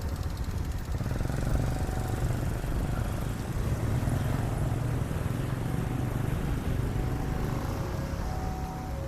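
Steady low rumble of engines running, with short faint tones at two alternating pitches sounding now and then, more often in the second half.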